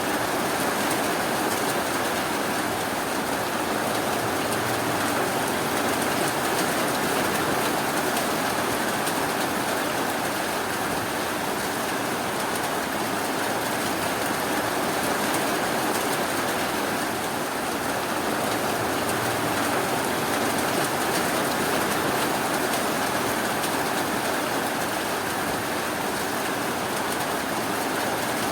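Steady rainfall, an even unbroken hiss of rain with no distinct drops or thunder.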